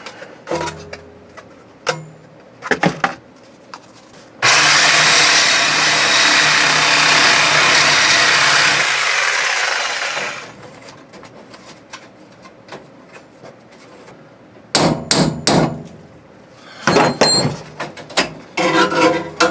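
Power saw cutting metal in one steady run of about six seconds, opening a hole to free a brake line, followed by a few short knocks and clatter of tools on metal near the end.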